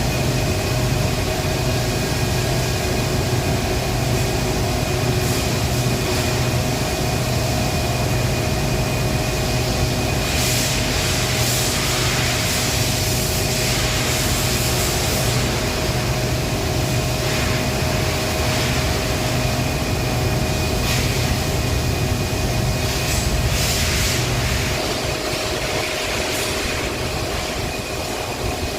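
Power plant machinery running with a steady, loud hum carrying several fixed tones. Louder hissing comes and goes for a few seconds in the middle and again near the end.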